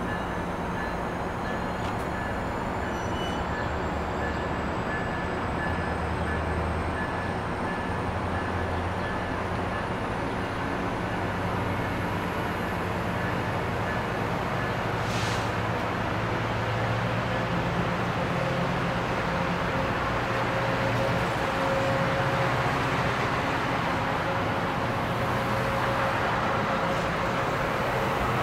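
MARC bilevel commuter train rolling past, a steady rumble and rush of wheels on rails that grows slightly louder near the end, with a faint tone slowly rising in pitch through the second half.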